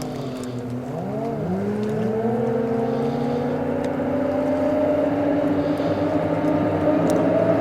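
Racing motorboat engines revving. The pitch sweeps sharply up about a second in, then holds high and climbs slowly as the sound grows steadily louder.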